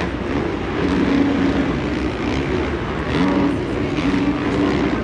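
Supercross dirt bike engines racing, a continuous drone whose pitch rises and falls as the riders work the throttle.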